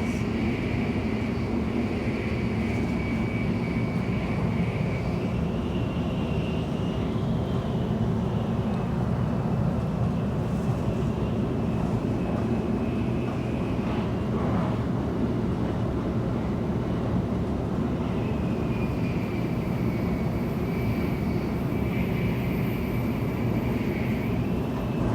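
Inside the passenger cabin of a Tokaido Shinkansen train running on the line: a steady rumble of running noise with a faint high whine on top.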